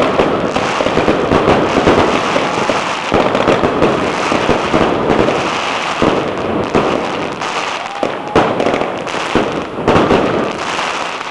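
Crackling meteor fireworks going off: a loud, dense, continuous crackle of many rapid small pops.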